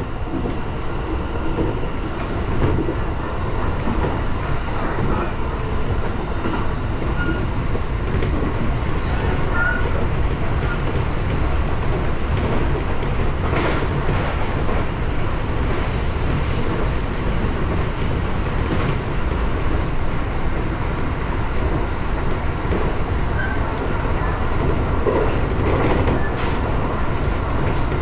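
701-series electric train running along the track, heard from inside the driver's cab: a steady rumble of wheels on rail, with a few clicks over rail joints.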